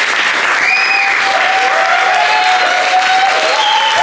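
Audience applauding steadily, with a few voices whooping over the clapping.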